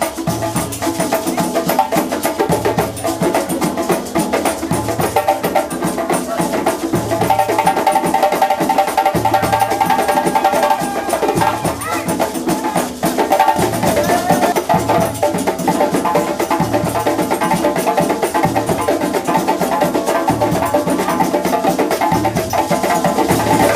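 Live Tobago drumming: a fast, dense percussion rhythm of drums and clicking sticks over a low drum stroke about once a second, with a held melody line above it.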